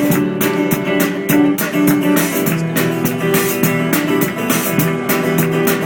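Acoustic guitar strummed in a steady rhythm, playing an instrumental passage of the song with no singing.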